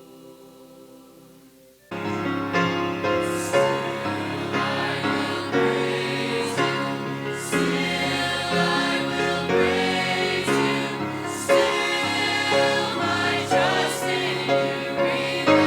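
College choir singing a gospel worship song. A soft held chord gives way about two seconds in to the full choir coming in loudly, with sustained harmonies and crisp sibilants.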